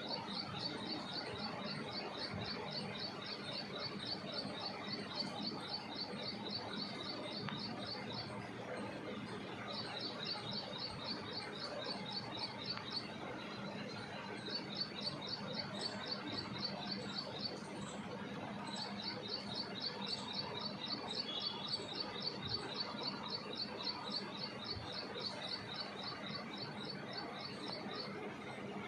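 A small bird calling with a rapid run of high, short chirps, several a second, in long bouts broken by brief pauses about 8, 13 and 18 seconds in, over a steady background hiss.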